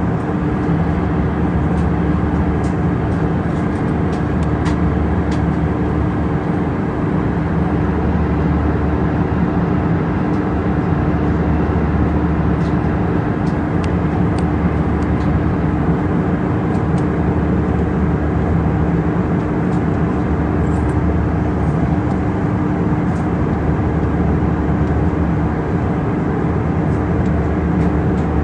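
Steady, unbroken engine drone of an airliner heard inside the passenger cabin in flight, with a constant low hum.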